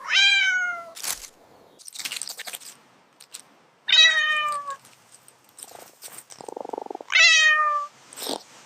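A domestic cat meowing three times, a few seconds apart, each meow under a second long and falling in pitch.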